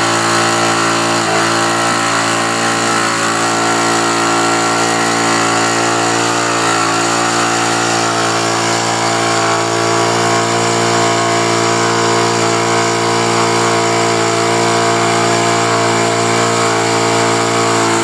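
Fora 0.68 nitro model aircraft engine running at a steady high speed, a loud buzz that holds one pitch without change.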